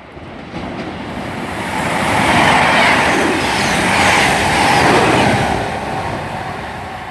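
A CrossCountry Voyager diesel multiple unit passing through at speed without stopping. The noise builds to a peak between about two and five seconds in, then fades as the train goes away.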